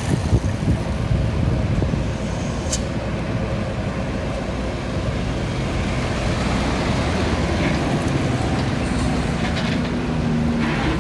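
Roadside traffic noise: vehicles running past with a steady rush of engines and tyres, a truck's engine hum coming up in the last few seconds, and a short sharp click about three seconds in.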